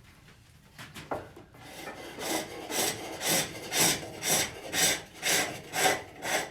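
Hook tool cutting birch on a pole lathe: a rhythmic shaving rasp on each stroke of the treadle, about two strokes a second, starting after a quiet first second and growing louder.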